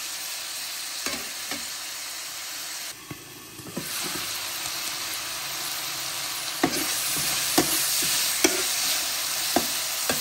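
Food sizzling in a hot wok while a spatula stirs it, with sharp knocks of the spatula against the pan every second or two. The sizzle drops briefly about three seconds in, then comes back louder.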